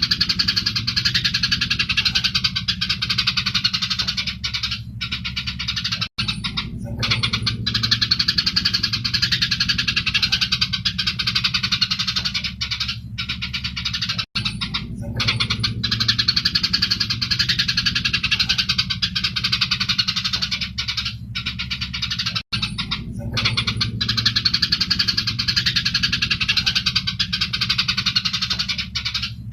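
Eurasian tree sparrows giving a dense, continuous stream of chattering fighting calls, as a recording that repeats about every eight seconds with a short break at each repeat. A steady low hum runs underneath.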